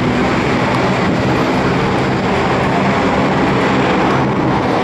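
Steady, loud engine drone with a low hum, even in level.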